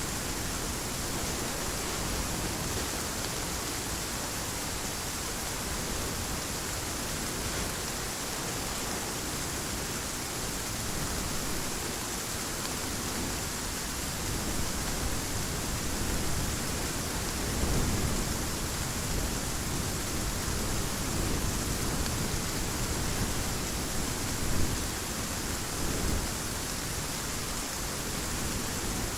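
Heavy rain falling steadily, with low rumbles of thunder rolling in past the middle and a louder crack near the end.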